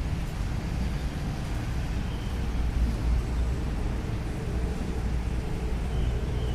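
Diesel truck engine running with a steady low rumble.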